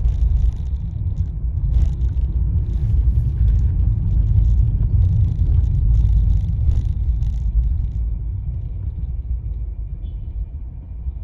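Low rumble of a car on the move heard from inside the cabin, with tyre hiss from the wet road coming and going; about eight seconds in the hiss stops and the rumble eases as the car slows to a stop.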